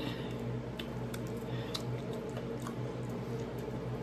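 A person chewing fried chicken wing meat close to the microphone, with a few sharp wet mouth clicks scattered through it.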